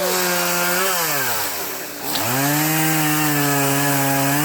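Two-stroke chainsaw at high revs, easing off about a second in and dropping almost to idle, then revving back up and holding a steady high pitch.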